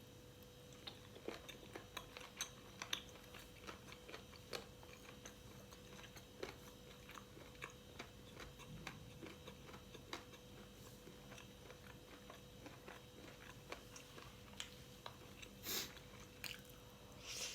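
A person chewing and biting food close to the microphone: irregular small clicks and crunches of eating, with a couple of louder bursts near the end, over a faint steady hum.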